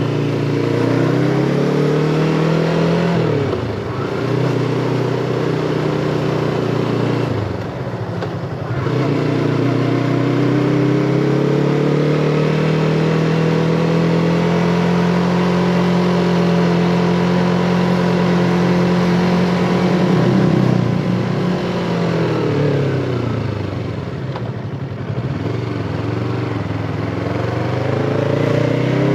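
Yamaha MT-25's 250 cc parallel-twin engine running under way. Its note drops off sharply and comes back twice early on, about 4 and 8 seconds in, then holds high and steady for several seconds, falls away again past the middle and climbs once more near the end.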